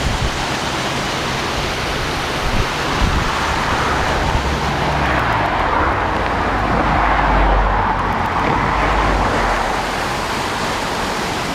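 Steady rushing of water pouring over a waterfall. A louder swell of rushing noise builds from about a third of the way in, peaks past the middle, and fades again.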